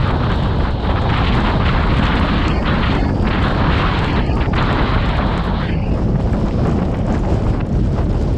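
Strong wind buffeting the microphone while the vehicle drives through a snowstorm: a loud, steady rush of noise with a heavy low rumble.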